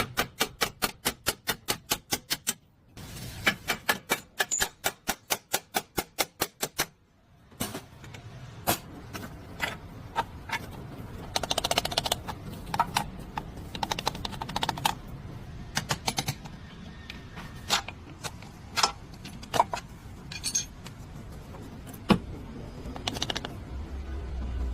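Rapid runs of sharp clicks, about eight a second, for the first seven seconds, then scattered clicks and knocks from hand tools at work on the car.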